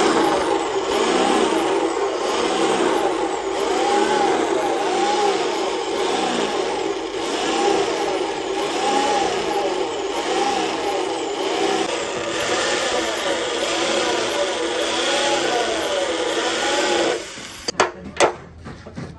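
A power tool running hard against metal, its pitch rising and falling about once a second in a steady rhythm, then stopping after about seventeen seconds; a few sharp knocks follow near the end.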